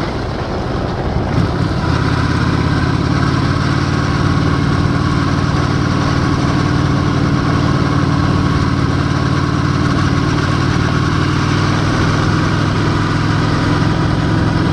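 Honda Shadow 750's V-twin engine running under way at a steady speed, a little louder and steadier from about two seconds in.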